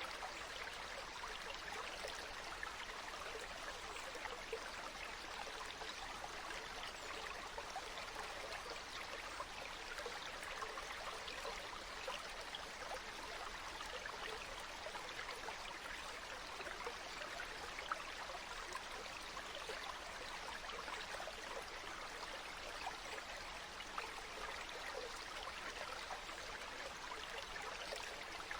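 Water flowing steadily in a stream, an even babble of many small splashes and trickles.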